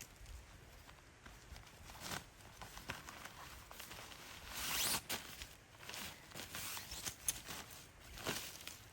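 Intermittent rustling and clicks of camp gear being handled, with a longer rasping pull lasting about half a second, about four and a half seconds in.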